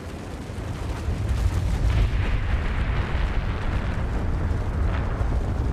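Deep, continuous rumble of a pyroclastic flow, a volcanic avalanche of hot ash and gas, swelling over the first second or two and then holding steady.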